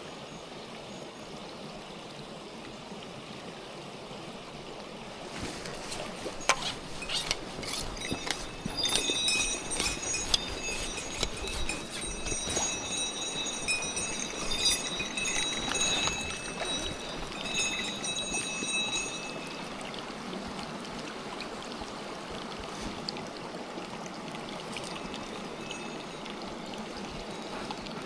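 A mountain stream running steadily. From about six seconds in until about nineteen, a small metal bell jingles with an irregular clatter over the water.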